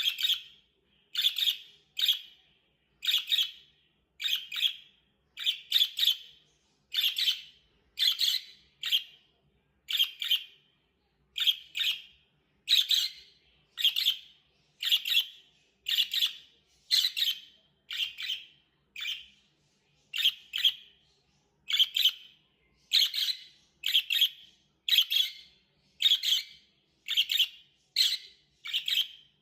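Small pet parrots calling: sharp, high chirps, often in quick pairs, repeating about once a second.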